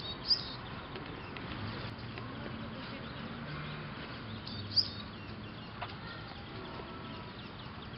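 Birds chirping over a faint steady outdoor background; two short, sharp high chirps stand out, one just after the start and one a little past halfway.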